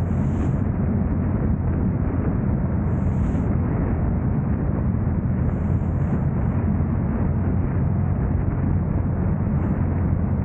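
Steady low rumble of road and wind noise from a car driving, with a few faint, brief high hisses over it.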